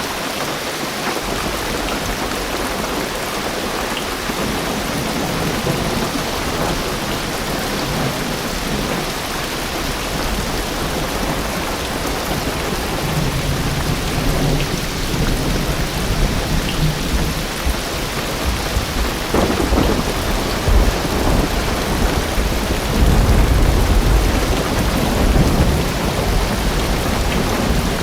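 Heavy rain drumming steadily on a car roof and windows. Deep rolling thunder builds in the second half and is loudest a few seconds before the end.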